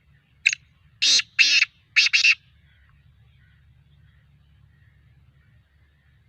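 Black francolin calling: one harsh phrase of five notes in about two seconds, a short first note followed by two pairs.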